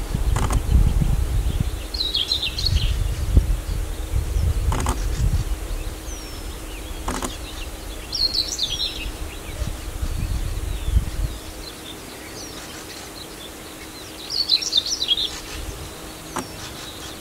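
A songbird singing a short phrase three times, about six seconds apart, over a low rumble that dies away after about eleven seconds, with a few sharp clicks in the first half.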